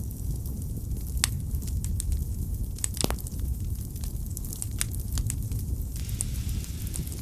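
Wood fire burning in a fireplace: irregular sharp crackles and snaps, a loud pop about three seconds in, over a steady low rumble of the flames. A soft hiss rises about six seconds in.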